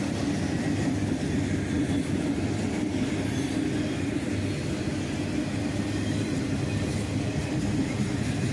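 Freight train cars rolling steadily past on the rails, a continuous even noise of wheels on track.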